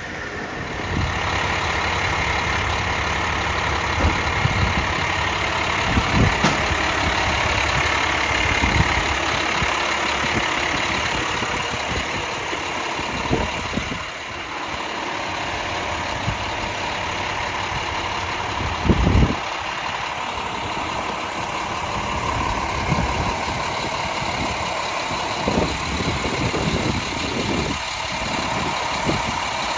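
Fire apparatus engine idling steadily, with a few brief knocks, the loudest about nineteen seconds in.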